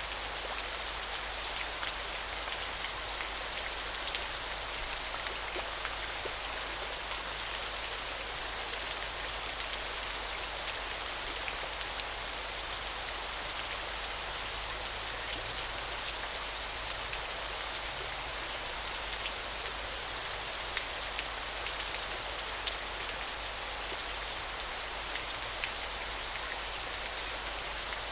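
River water flowing in a steady rush. Over the first half a thin, very high steady note comes and goes in spells of about a second each.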